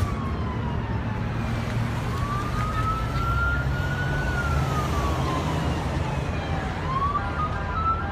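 An emergency vehicle's siren wailing, its pitch slowly rising and falling twice, over a steady low rumble.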